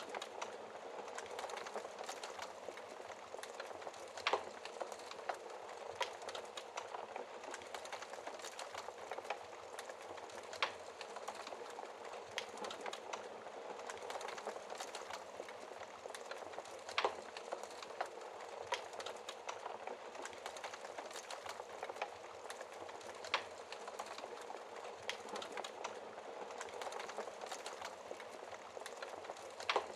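Wood fire crackling with frequent small pops and a few louder snaps, over a steady hiss of rain.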